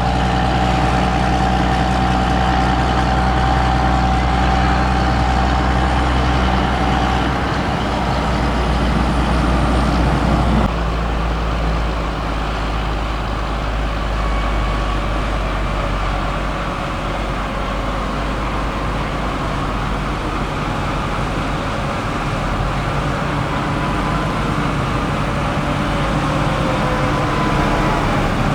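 Heavy diesel engines of harvest machinery running steadily, the sound changing abruptly about ten seconds in.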